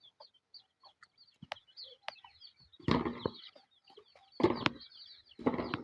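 Birds chirping in quick, high notes, then three loud, noisy bursts of rustling about three, four and a half, and five and a half seconds in.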